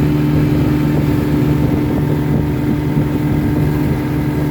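1954 Johnson QD-15 10 hp outboard, a two-cylinder two-stroke, running steadily at an even, unchanging pitch.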